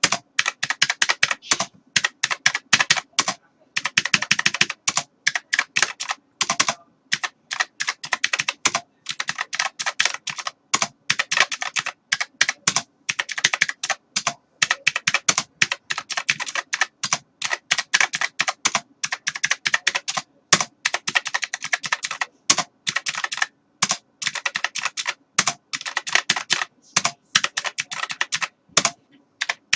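Typing on a computer keyboard: fast runs of key clicks in bursts, with short pauses between them.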